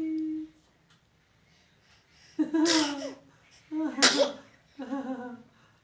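A person sneezing twice, about a second and a half apart. Each sneeze is a short voiced 'ah' breaking into a sharp burst, and a brief vocal sound follows a second later.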